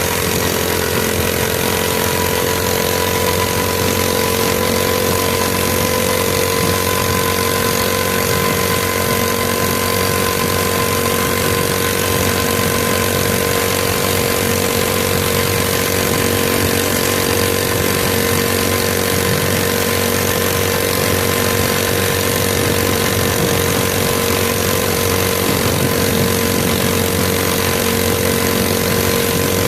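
Mini bike's small engine running at a steady, unchanging speed, with a constant hum and a higher tone above it.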